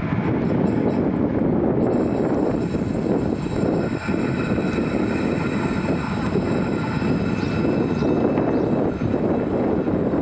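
FGV 2500-series tram-train running past, a steady loud rumble of the train in motion, with a high thin whine joining about two seconds in and holding steady.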